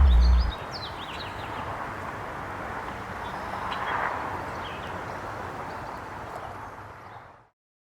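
The last of the background music cuts off, leaving outdoor ambience: a steady hiss of background noise with a few short bird chirps now and then. It fades out to silence near the end.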